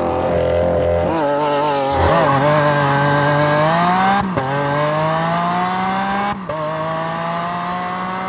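Lamborghini Aventador S's naturally aspirated V12 accelerating hard, its note climbing with the revs. The pitch drops suddenly twice, about four and six and a half seconds in, as it shifts up, then it runs on at steadier revs.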